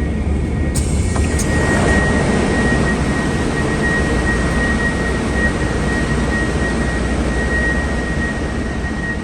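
Steady loud rumble and hiss of an airliner cabin on the ground, with two sharp clicks about a second in and a thin steady whine that sets in just after.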